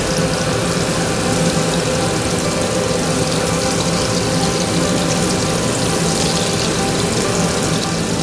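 Burger-steak patties of ground beef sizzling steadily in hot oil in a frying pan while they are turned with a spatula, with a steady low hum underneath.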